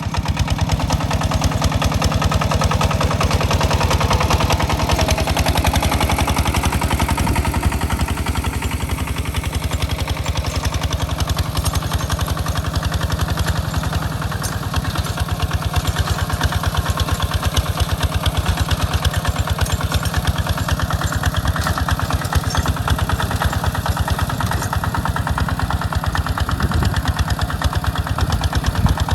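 Hinota hand tractor's engine running steadily with rapid, even firing beats as it pulls a plow through a rice field.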